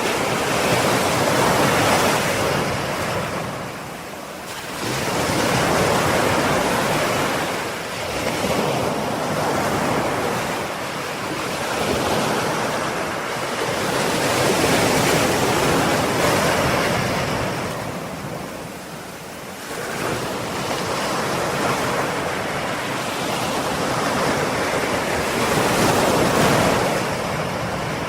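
Ocean waves breaking and washing on a shore, the surf swelling and ebbing in slow surges every several seconds.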